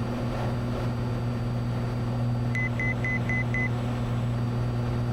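Cessna 182's six-cylinder engine and propeller droning steadily in the climb, heard in the cockpit. About halfway through, five quick high electronic beeps sound, about four a second.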